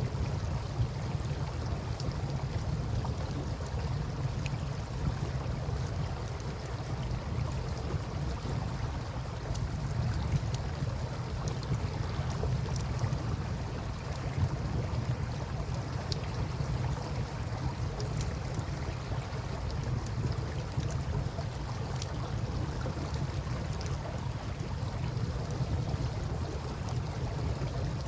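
Campfire crackling with scattered small pops over a steady wash of river water and a continuous low rumble.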